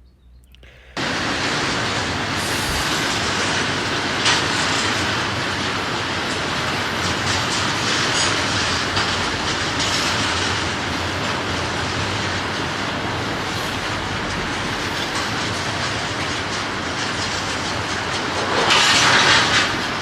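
Freight train rolling past, its wheels clicking over the rail joints, starting about a second in and louder near the end. Couplers slam against each other as the slack runs in while the train slows.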